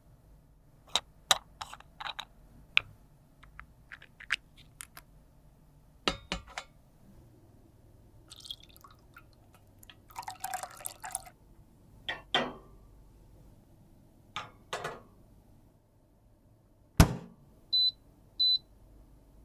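Small clicks and taps of cosmetic containers and tools being handled, with a short rustling scrape about ten seconds in and a sharp knock near seventeen seconds. Then two short, high electronic beeps.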